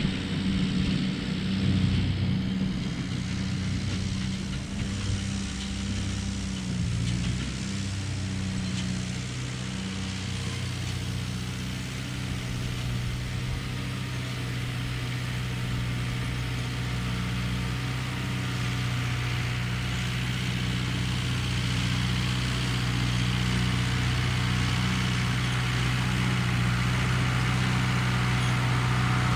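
Ford 8N tractor's four-cylinder engine running steadily, growing gradually louder over the second half.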